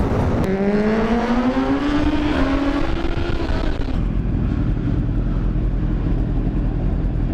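Sport bike engine pulling hard in one gear, its pitch rising steadily for about three seconds over wind rush. About four seconds in it changes abruptly to a steady low rumble of motorcycles idling.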